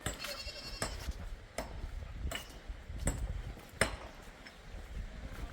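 Sharp knocks repeating about every three-quarters of a second, a hand tool striking steadily, with a brief high chirp near the start.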